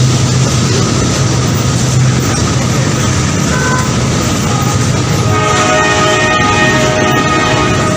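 A train running with a loud, steady rumble, and its horn sounding continuously from about two-thirds of the way in.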